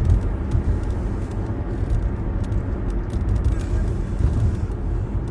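Steady low rumble with an even background hiss, with no speech.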